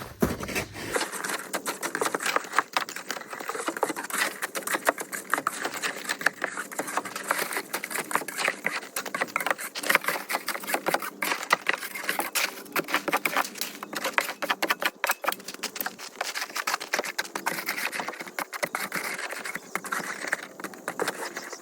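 Shovel scraping and chipping crusted sleet and ice off the steps: a dense, irregular run of scrapes and sharp clicks.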